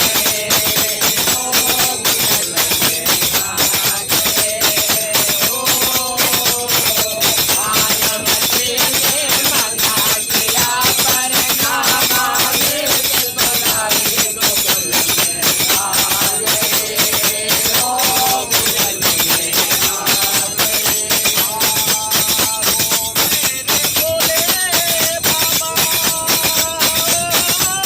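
Live devotional bhajan music: a wavering sung melody over fast, steady jingling metal hand percussion.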